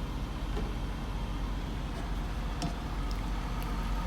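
Steady low rumble of an idling truck engine heard inside the cab, with a few light clicks and taps near the end.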